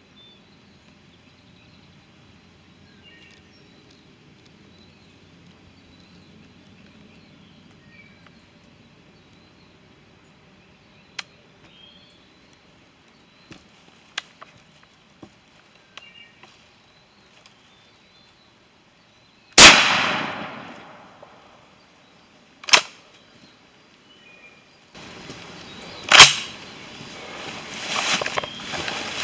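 Shotgun shot at a turkey: after a long hush with faint bird chirps, a single very loud blast about two-thirds of the way through rings out for over a second. Two more sharp, loud bangs follow a few seconds apart, then rustling and handling noise near the end.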